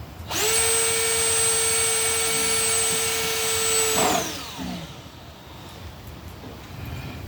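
An electric power tool's motor runs at a steady high speed for about four seconds, then spins down with a falling pitch, followed by a few light knocks.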